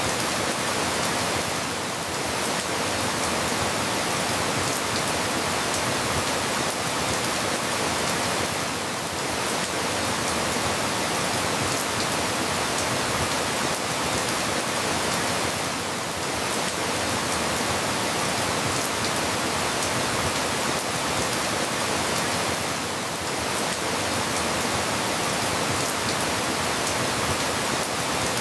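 Steady, dense rainfall, an even hiss with fine scattered drop patters, easing slightly every few seconds.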